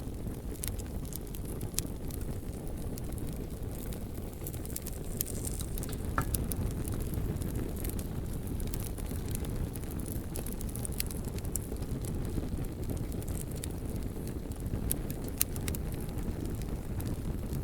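Wood bonfire burning: a steady low rumble of flames with frequent sharp crackles and pops scattered throughout.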